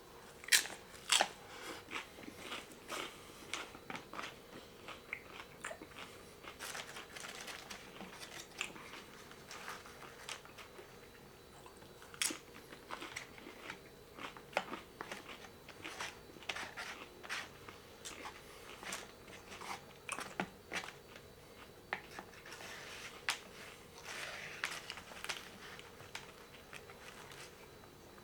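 Close-up eating sounds of a person chewing and biting beef tongue tacos: scattered wet mouth clicks and crunches, with a sharper click about half a second in.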